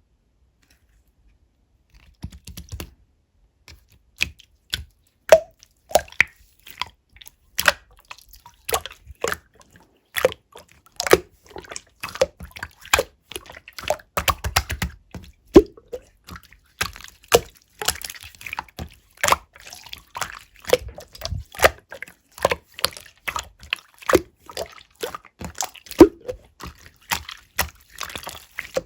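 Hands squishing and stretching a runny pink slime, giving a quick irregular run of wet sticky clicks and pops, several a second, starting about two seconds in. The slime has gone soft and melted, so it is loose and wet in the hands.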